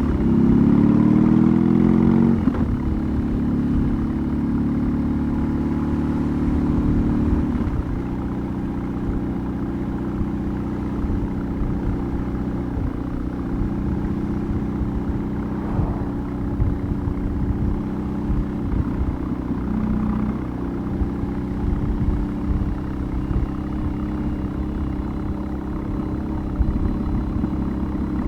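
BMW R18's 1802 cc boxer twin, running through a custom exhaust. It pulls with a rising note for about the first two seconds, then eases off and settles into a steady, lower run.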